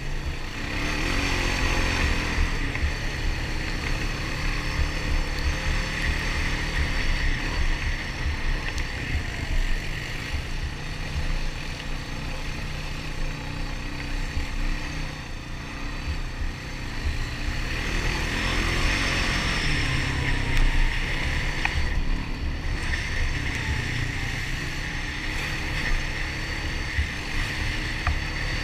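Honda ATV single-cylinder four-stroke engine running while riding a trail, the engine note swelling twice as the throttle opens, with wind buffeting the microphone.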